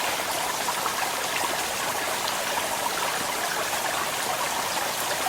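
Small mountain stream running shallow over rocks: a steady rush of flowing water.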